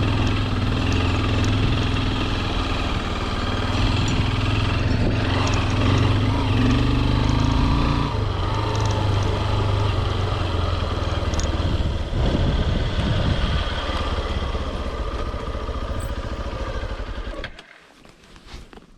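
Honda CRF150L's single-cylinder four-stroke engine running steadily under way, its note lifting slightly then easing off partway through. The engine sound drops away suddenly near the end.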